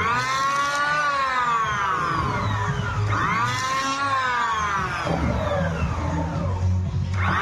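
Electric hand planer running and cutting wood, its motor whine sweeping up sharply in pitch and then sliding back down, over and over in passes a few seconds apart.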